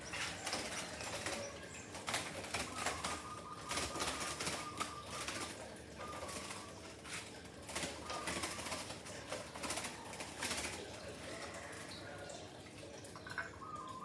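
A pet bird flapping its wings in quick repeated flurries.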